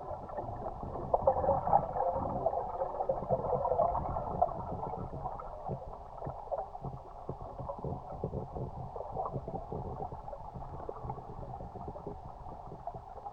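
Muffled water sloshing and gurgling, louder in the first few seconds and then settling to a steady splashing.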